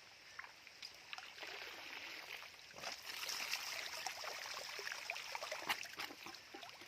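Water trickling and sloshing with small splashes as an eel trap is pulled up and drains, growing louder about three seconds in.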